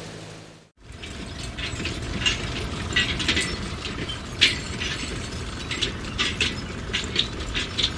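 A steady hum fades out in the first second. Then a mechanical clicking, ratchet-like, begins: many irregularly spaced sharp clicks over a low rumbling noise.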